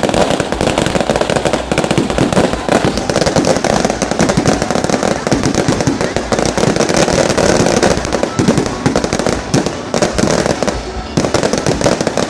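Large bonfire burning, with loud, continuous dense crackling and popping.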